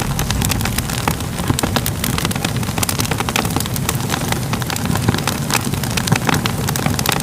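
Fire burning and crackling: a steady low noise of flames with frequent, irregular sharp crackles and pops.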